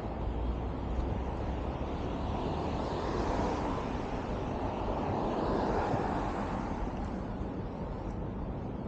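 Steady outdoor city traffic noise, swelling twice as vehicles pass.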